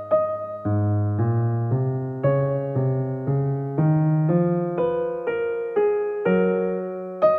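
Soft background music: electric piano playing a slow melody of single notes, about two a second, each struck and left to fade.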